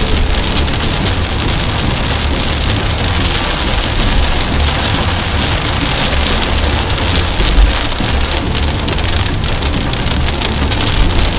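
Heavy rain on a moving car, heard from inside the cabin as a dense, steady hiss over a low rumble of the car on the road.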